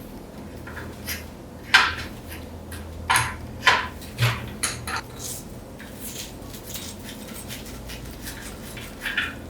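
Metal tools and parts clinking and knocking as they are handled: a string of separate sharp taps, about half a dozen of them clear, with quieter clicks between.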